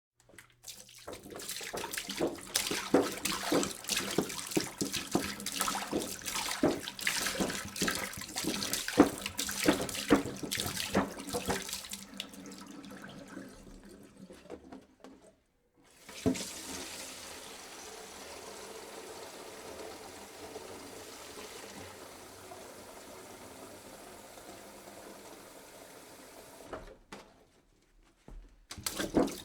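Water being poured into a jug. For the first dozen seconds it splashes unevenly, then it fades and stops briefly about halfway. A smoother, steadier stream follows, pauses shortly near the end, then splashing starts again.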